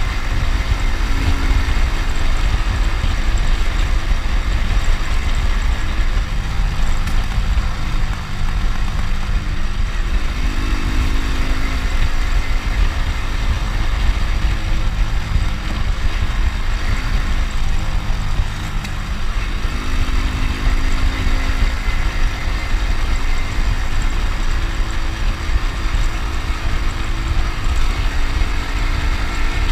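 Honda Win motorcycle's small single-cylinder four-stroke engine running on the move, with a loud steady low rumble; the engine note shifts in pitch a few times as the road speed changes.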